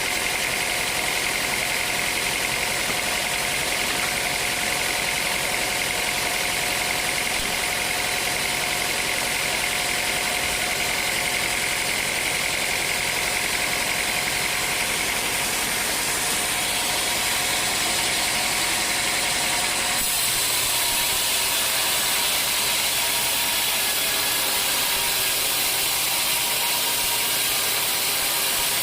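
Band sawmill running, with a continuous mechanical noise and a steady whine. The sound changes abruptly about twenty seconds in.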